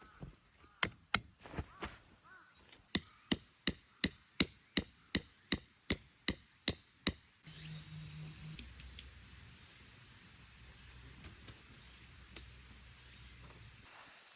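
A quick series of sharp knocks: a few scattered blows, then a steady run of about three strikes a second, like a tool chopping or pounding at a campsite. About halfway through the knocking stops abruptly and a steady high hiss with a low hum takes over, the sound of insects in the background.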